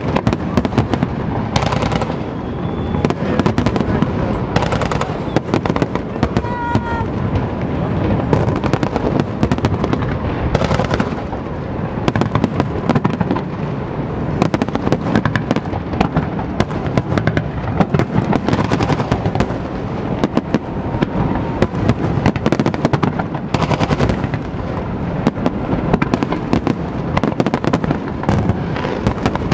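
Aerial fireworks shells bursting in a dense, continuous barrage, the sharp bangs and crackles following one another several times a second without a break.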